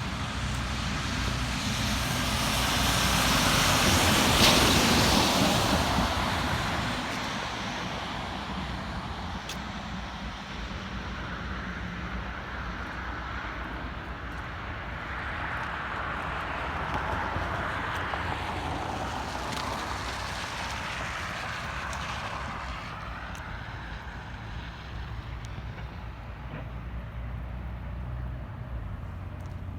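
A car passing on a snowy road: its tyre and engine noise swells to a peak about four seconds in and fades away. A softer stretch of passing traffic follows in the second half.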